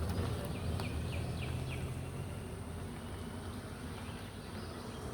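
A bird calling a quick series of about five short, falling high notes, over a low hum that fades out about two seconds in.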